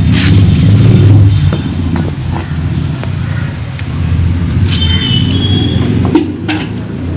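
Steady low rumble of a motor vehicle engine running, with a few light clicks and knocks scattered through it.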